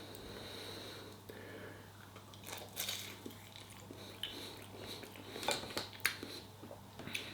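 A person biting into and chewing a vegetable wonton, with faint scattered crunches, over a steady low electrical hum.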